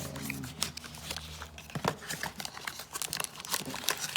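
Packaging crinkling and rustling by hand, with irregular small clicks and crackles, as the parts of a kit are taken out.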